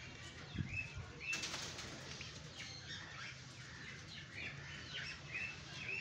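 Birds chirping in the background: short, repeated high calls every second or so, with a brief rustle about a second in.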